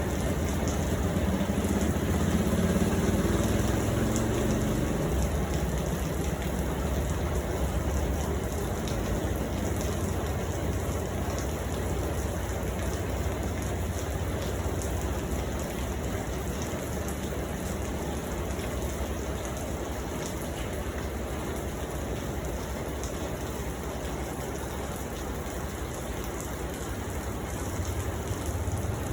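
Steady rain falling, an even hiss of drops. A low rumble in the first few seconds fades away.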